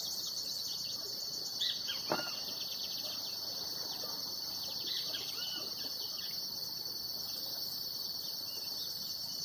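A steady, high insect chorus of crickets or cicadas, trilling without a break. A few short chirps and calls come over it about two seconds in and again around the middle.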